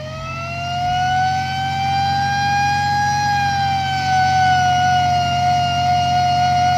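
Six-wheel truck's siren-style air horn sounding one long, loud tone that rises in pitch over about the first second, then holds steady.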